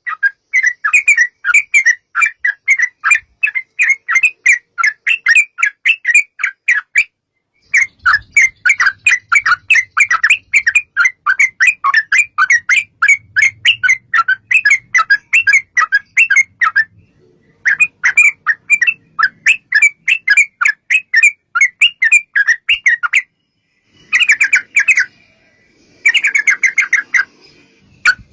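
Yellow-vented bulbul (trucuk) singing a long, rapid run of loud bubbly chirps, several notes a second, broken by a few short pauses. This is the fast 'ropel' song used as a lure to set other bulbuls singing back.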